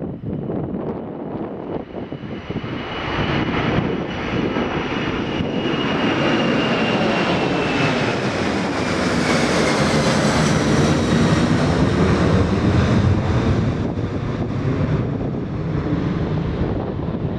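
Jet airliner passing close. The engine noise swells to a peak about halfway through, and a high engine whine falls slowly in pitch as it goes by.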